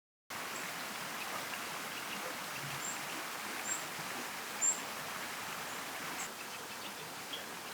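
Steady rush of a mountain stream's flowing water, with a few short, high bird chirps over it.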